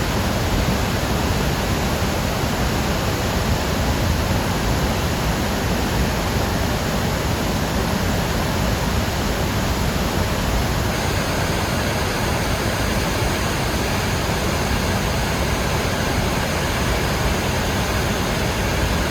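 Steady rush of floodwater pouring out of the Akiba Dam's spillway after typhoon rains, a loud, even noise with no break.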